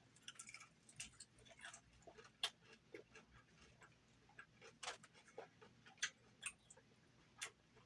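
Close-up eating sounds of chewing a crispy air-fried chicken wing: faint, irregular crunches and wet mouth clicks, a few a second.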